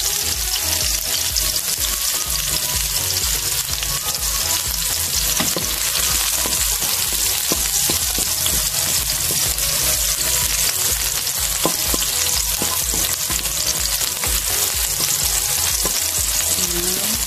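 Sliced red onions and garlic sizzling steadily in hot pork fat in a metal wok, with a wooden spatula stirring and knocking against the pan now and then.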